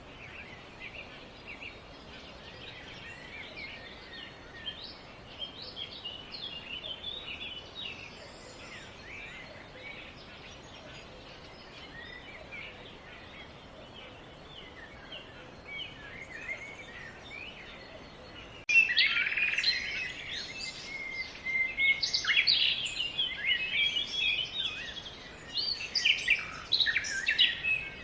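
Several small birds chirping and singing over a faint background hiss. About two-thirds of the way in, the birdsong suddenly becomes much louder and busier.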